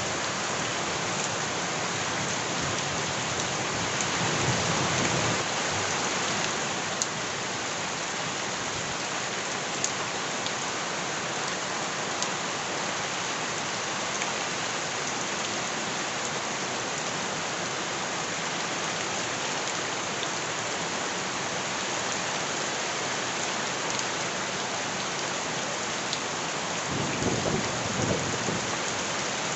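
Steady heavy rain falling on surfaces, with a few sharp drop clicks. There are two brief low rumbles, one about four seconds in and one near the end.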